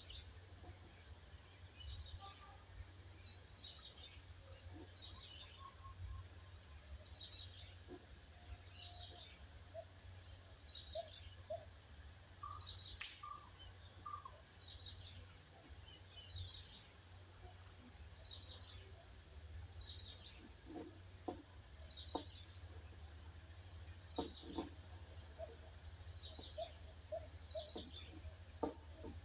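Birdsong: a bird repeats a short, high, falling phrase about once a second over a steady low rumble. There is one sharp click about 13 seconds in, and a few lower short notes or knocks near the end.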